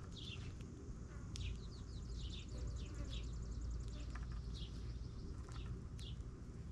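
Small birds chirping: a string of short, quick downward chirps throughout, with a fast high trill running for about a second and a half partway through, over a steady low rumble.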